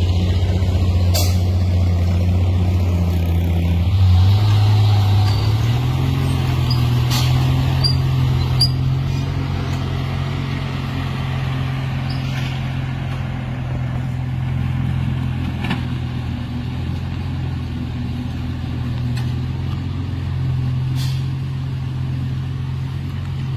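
Truck engine running steadily under way. Its pitch rises and settles higher about four to six seconds in, with a few sharp clicks and rattles scattered through.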